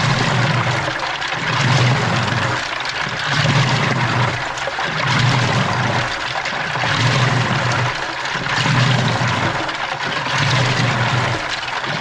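Washing machine running a wash with water sloshing in the drum, and a low motor hum that swells and fades in a steady rhythm, about once every one and three-quarter seconds.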